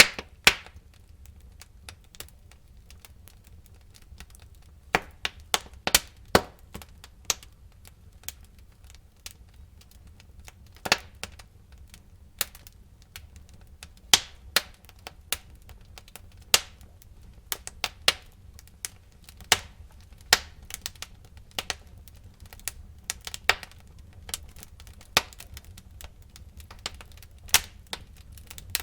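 Wood fire burning in a fireplace, with sharp, irregular crackles and pops from the burning logs over a faint low rumble of the flames.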